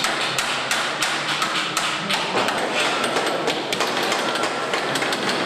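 Irregular knocking and tapping, several strikes a second, over a busy workshop din: hand tools at work on a car assembly floor.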